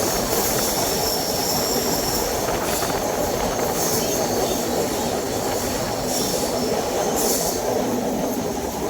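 A passenger train running on its track, heard from on board: a steady rumble of wheels and coaches, with a high-pitched squeal that comes and goes a few times.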